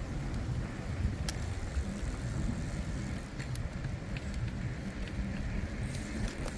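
Uneven wind rumble and road noise while riding a bicycle, with motor traffic in the background and a few light ticks.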